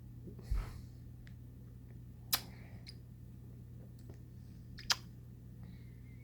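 A few sharp single clicks, about two and a half seconds apart, over a steady low hum, with a softer rustling thump about half a second in.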